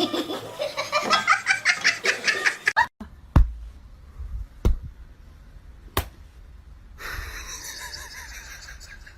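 A person laughing hard in quick repeated bursts for about three seconds. This stops abruptly and is followed by three sharp knocks about a second and a half apart, then a steady hiss.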